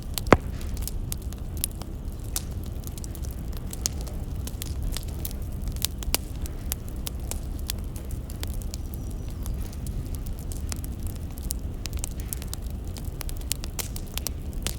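Wood fire crackling, with frequent irregular pops and snaps over a steady low rumble of burning logs; one especially sharp pop comes just after the start.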